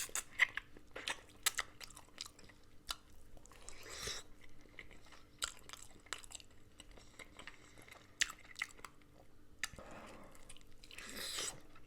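Close-miked chewing and gnawing on beef marrow bones: irregular wet clicks, smacks and short crunches as sinew and gristle are bitten off the bone.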